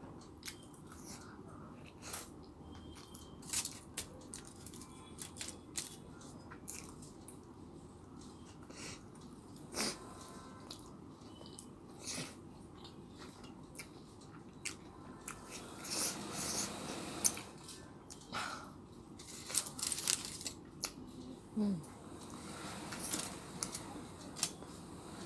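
Someone chewing and biting into a crunchy fried chicken burger, with irregular crisp crunches and clicks throughout.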